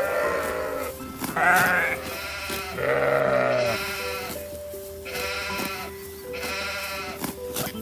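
Goat bleating several times, each call a wavering, quavering bleat of about half a second to a second.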